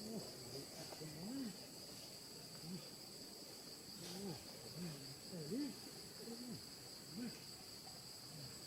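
Steady high-pitched drone of insects, with a string of short, low, rising-and-falling calls about once a second over it.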